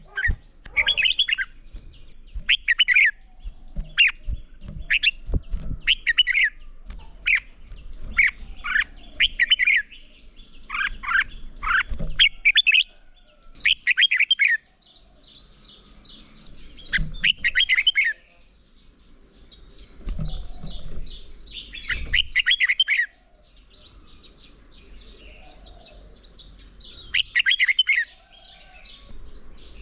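Red-whiskered bulbuls singing competitive song: short, loud whistled phrases repeated about once a second in the first half and more spaced out later, with higher, quicker twittering between them.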